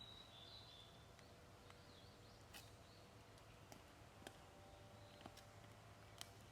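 Near silence: faint outdoor ambience with a brief, faint bird chirp right at the start and a few faint clicks scattered through.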